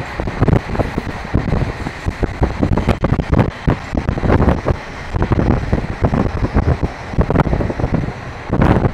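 Moving passenger train: continuous rumble with irregular knocks and rattles, and wind buffeting the microphone in gusts.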